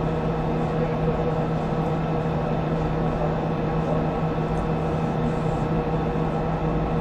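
Steady hum and hiss with several unchanging tones and no breaks.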